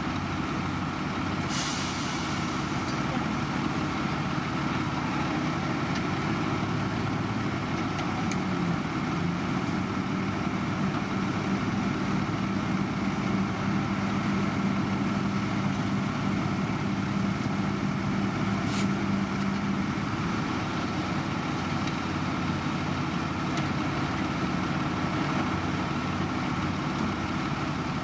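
Heavy diesel road-construction machinery running steadily, with a short hiss of air about two seconds in and a steady hum added for about ten seconds in the middle.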